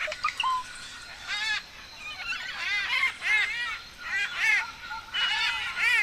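Birds calling in loud, harsh, honking notes that come in quick runs of several, over a thin, steady, high tone.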